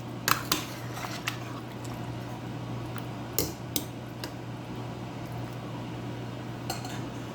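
A spoon knocking and clinking against a pot of curry about seven times, spread irregularly, over a steady low hum.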